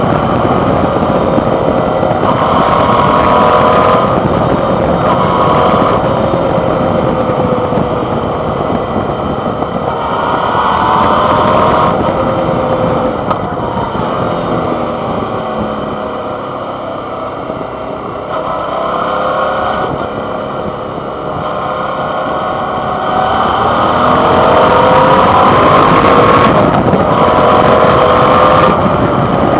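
Suzuki V-Strom 650's V-twin engine under way, heard from a handlebar-mounted microphone. The revs rise and fall with the throttle, easing off through the middle and building again toward the end.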